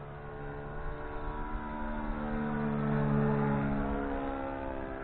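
Saito 40 four-stroke glow engine on a Sig Four Star 40 radio-control plane in flight. Its steady note grows louder as the plane comes past, peaks about three seconds in, then fades.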